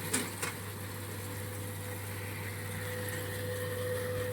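Small machine running steadily with a low hum and a thin whine that grows stronger about two and a half seconds in. Two light clicks come near the start.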